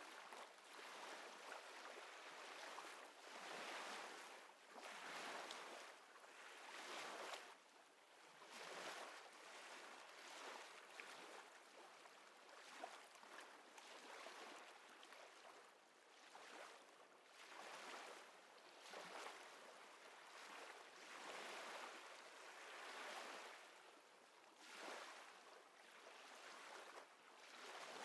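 Faint small waves lapping and washing, in soft surges that swell and ease every second or two.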